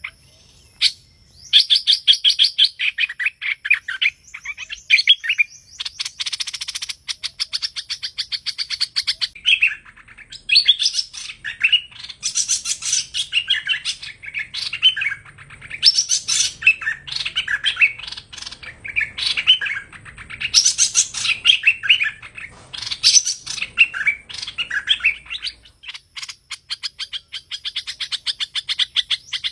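Hoành hoạch bird (streak-eared bulbul) calling: rapid chattering runs of quick notes, repeated in phrases a few seconds long with short gaps between them.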